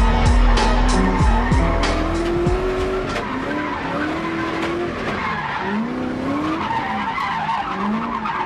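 Drift car's engine revving up and down through a slide with tyre noise, heard on board. A music beat with deep bass plays for the first two seconds or so, then stops.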